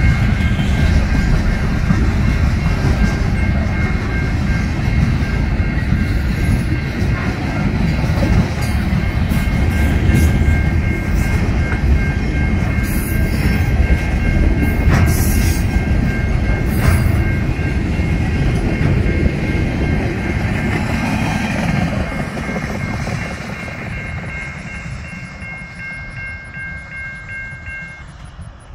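Freight train of flatcars loaded with wind turbine blades rolling past: a heavy, steady rumble of wheels on rail with a faint high whine over it. It fades away over the last several seconds as the end of the train goes by.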